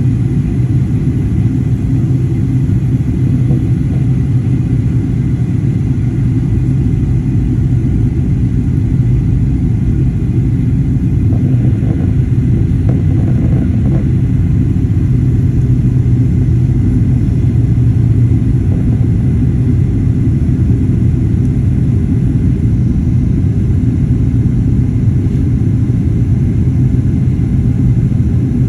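Airliner cabin noise: a steady low rumble of engines and airflow heard from inside the cabin, with a faint steady whine above it.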